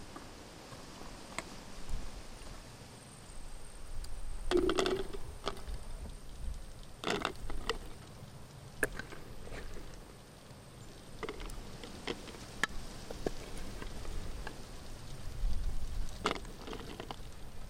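Glass jars and metal lids being handled: scattered light knocks and clicks over a low rumble, with a few sharper taps.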